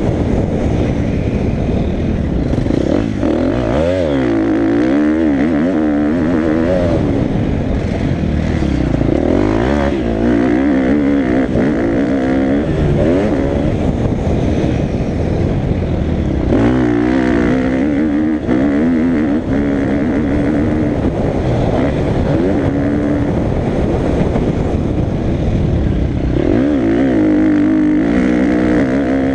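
Motocross bike engine being ridden hard, its pitch rising and falling again and again as the throttle is opened and shut through the track's sections.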